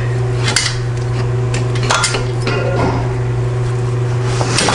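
Metal exhaust pipe pieces being handled, clinking and knocking against each other and a work surface a few times, over a steady low hum.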